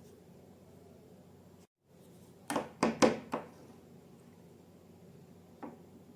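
Slime being handled: four quick, sharp sounds about a third of a second apart, then a single fainter one near the end.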